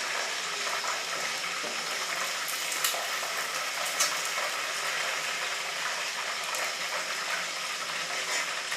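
Chicken pieces frying in hot oil: a steady sizzle, with a couple of brief clicks from a utensil against the pan about three and four seconds in.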